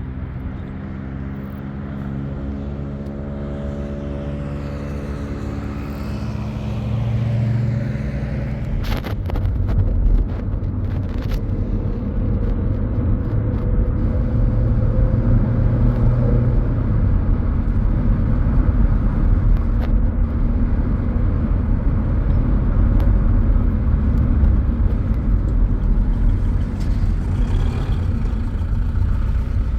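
A motor vehicle's engine running, its pitch rising over the first several seconds as it speeds up, then a steady heavy low rumble as it drives on, with a couple of sharp knocks about nine and eleven seconds in.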